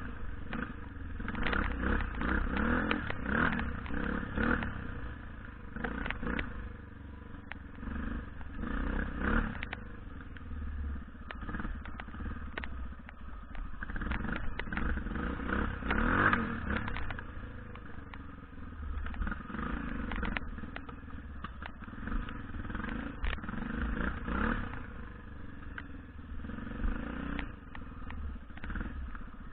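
BM Enduro 250 dirt bike engine being ridden, its revs rising and falling again and again under throttle, with scattered knocks and clatter from the bike.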